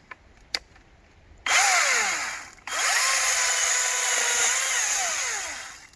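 ECHO DCS-2500T 56-volt battery chainsaw running in two bursts with an electric whine, starting suddenly about a second and a half in, stopping briefly, then running again and winding down near the end. The whine drops in pitch during the first burst and rises back to a steady tone in the second, as the chain cuts through small trail-side branches.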